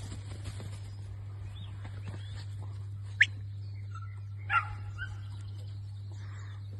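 Working sheepdog barking, two short sharp barks about three and four and a half seconds in, over a steady low hum.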